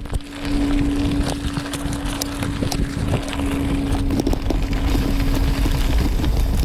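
Mountain bike being ridden on a dirt trail: wind rumbling on the microphone, scattered clicks and rattles from the tyres and bike over rough ground, and a steady hum held at one pitch.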